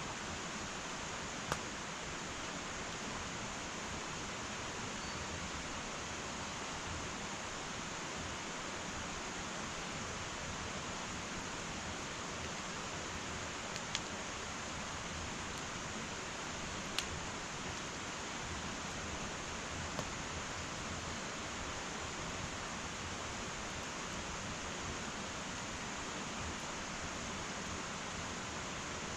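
Wood fire burning in an irori hearth: a steady hiss with a few sharp crackling pops, spaced several seconds apart.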